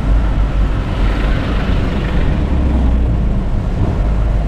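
Moving car, heard from inside: a steady low rumble of road, tyre and engine noise while driving.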